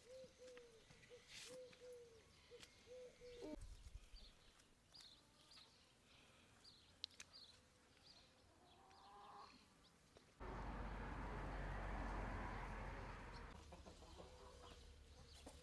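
Domestic hens clucking in a quick run of short calls, with small birds chirping. About ten seconds in, a louder rushing noise lasts about three seconds and then stops.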